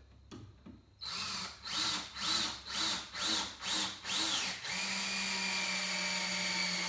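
Power drill driving a screw into a mitered wood joint. The trigger is pulsed about twice a second, with the motor speeding up and slowing down each time, then it runs steadily at speed from a little past the middle until the screw is in.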